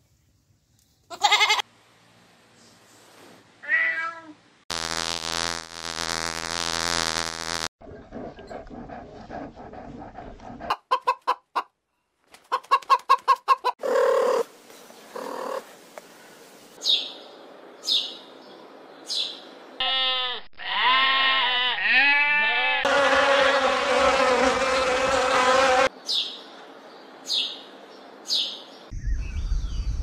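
A run of different animal calls cut one after another: a goat bleating, with one long even call lasting about three seconds, then rapid clicks, short high chirps and a cat meowing several times.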